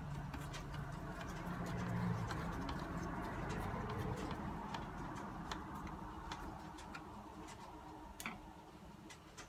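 Irregular light clicks and taps of small plastic and metal parts being handled, as a radio's case and module are put back together, over a low rumble that fades out about four seconds in.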